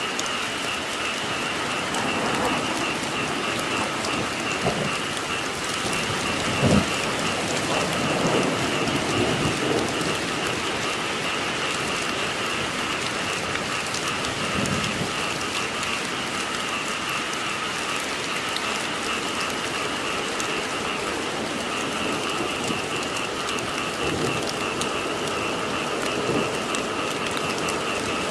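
Steady rain falling, with frogs calling in a continuous pulsing chorus. A single sharp thump comes about seven seconds in.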